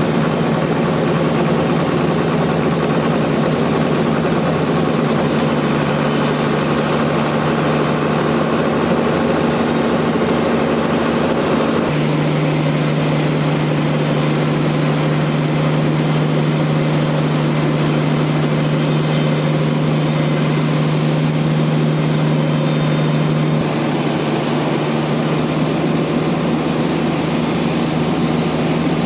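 Heavy sawmill machinery running steadily: a loud mechanical drone with a strong, steady low hum under dense noise. The sound changes abruptly about twelve seconds in and again around twenty-four seconds.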